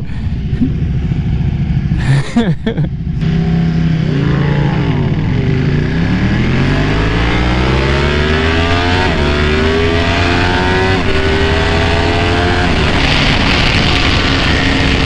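Sport motorcycle engine pulling away: a few blips of the throttle, then the engine note dips and climbs steadily as it accelerates. Near the end wind rush on the helmet microphone takes over as speed builds.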